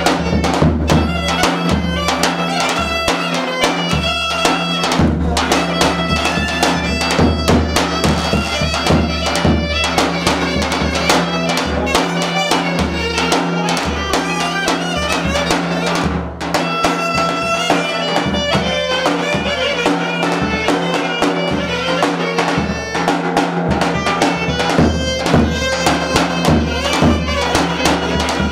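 Turkish Thracian fasıl music: a wind instrument carries the melody over a steady drum beat.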